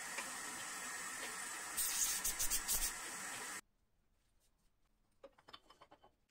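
A steady hiss that turns rougher and louder, pulsing for about a second, then cuts off abruptly a little past halfway; a few faint clicks follow near the end.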